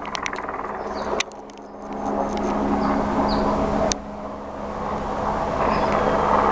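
Helicopter hovering overhead: a steady drone of rotor and engine, with a few sharp clicks and two sudden drops in level, about one and four seconds in.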